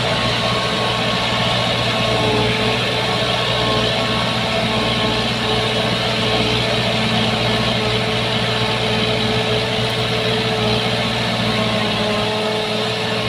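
Shantui bulldozer's diesel engine running steadily at an unchanging pitch.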